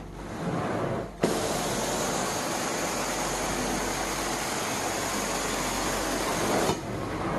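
Hot water extraction wand working the carpet: a steady rushing hiss of spray and suction that starts suddenly about a second in and stops near the end, over the steady hum of the extractor's vacuum.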